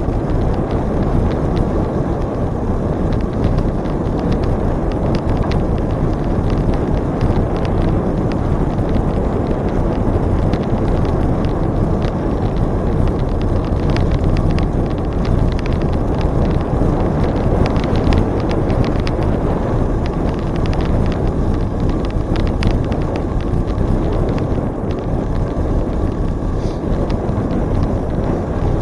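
Steady rush of wind on the microphone of a camera riding along on a moving bicycle, with faint scattered clicks and rattles from the bike.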